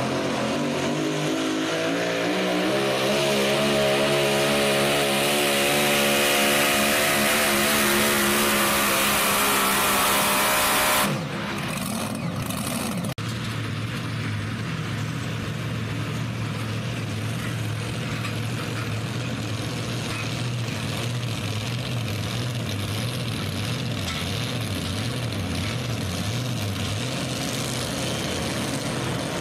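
Super modified four-wheel-drive pulling truck's engine under full throttle during a pull: the revs climb in the first second, then hold high and wavering under load until the throttle is cut suddenly about eleven seconds in. After that, an engine idles steadily, with a single click a couple of seconds after the cut.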